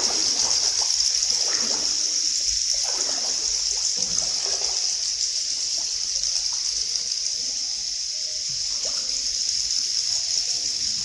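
Water trickling and splashing in the river cave, under a steady high hiss, with faint voices in the background.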